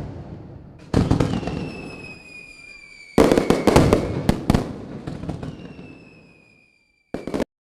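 Fireworks: several sharp bangs that die away, a quick cluster of cracks in the middle, and high whistles that slowly fall in pitch, ending with a short burst near the end.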